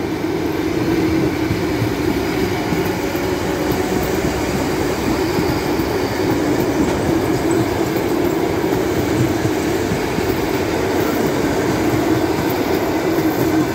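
Electric commuter train (electric multiple unit) passing close by: steady rolling noise of wheels on rails with a constant low hum, unbroken throughout.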